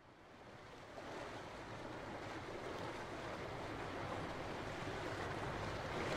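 Steady rushing noise of strong, gusty wind on the camera microphone, fading in over the first second and growing slowly louder.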